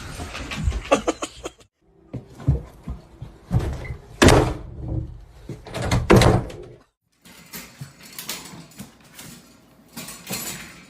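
A run of knocks and thumps, stopping short twice.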